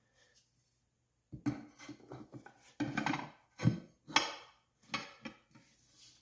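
Tire spoons knocking and scraping against the wheel rim as a tire bead is worked onto it by hand: a string of irregular metal clanks, some with a short ring.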